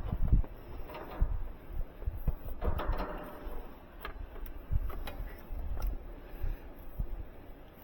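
Irregular knocks, bumps and rustling from hands-on work, likely new thermostat wire being handled and routed, with a longer scraping rustle about three seconds in.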